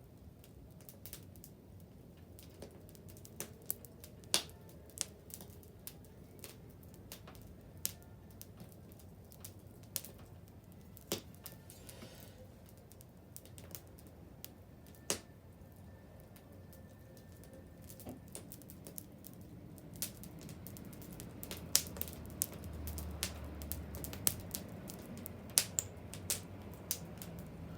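Wood bonfire crackling, with sharp irregular pops and snaps over a low rumble of burning. The pops come more often and louder in the last third. A faint thin whistle runs through the middle.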